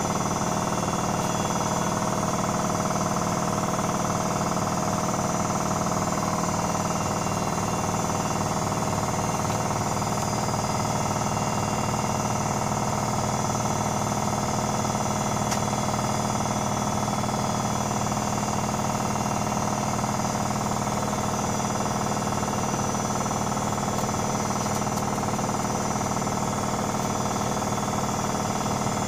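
Privileg Sensation 9245 washing machine running at a steady speed: a constant motor whine over a rumble.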